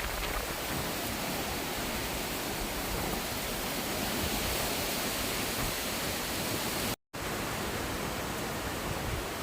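Steady, even rushing noise of storm wind and weather on the microphone, cut out completely for a split second about seven seconds in.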